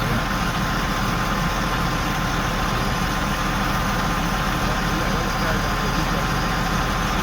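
The big crane's diesel engine running steadily during a lift, a low drone with a faint steady whine above it.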